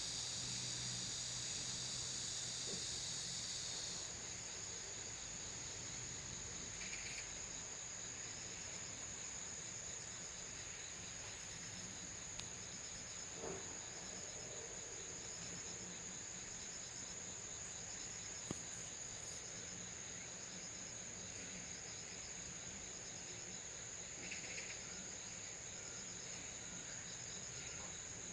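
Insects trilling steadily on a high, continuous note. A second, broader insect buzz stops about four seconds in, and a few faint short calls sound over the trilling.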